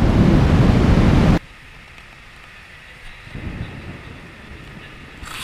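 Heavy rainstorm: a loud, steady rush of rain that cuts off abruptly about one and a half seconds in. A much fainter rain hiss follows, with a low rumble about two seconds later.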